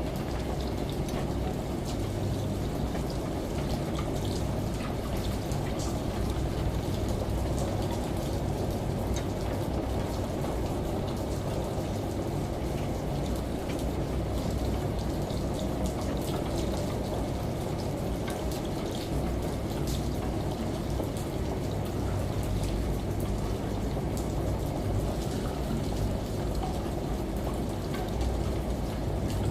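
Steady rain and running shower water layered over the low hum of a washing machine, with scattered ticks of drops, unchanging throughout.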